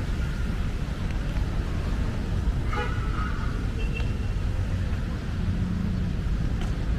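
Steady low rumble of city road traffic, with a brief faint high sound about three seconds in.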